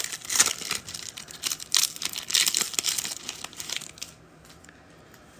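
Trading card pack wrapper being torn open and crinkled by hand, in a rapid run of crackles that stops about four seconds in.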